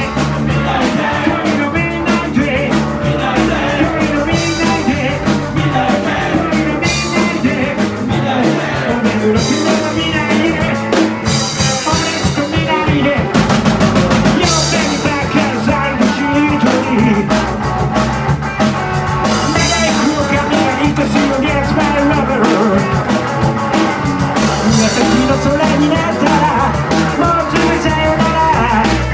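Live rock band playing a song: drum kit, band instruments and singing.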